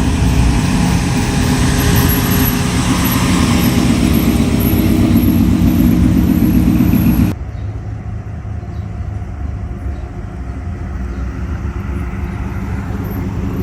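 Car engine running loudly. About halfway through, the sound cuts abruptly to a quieter, steady engine rumble.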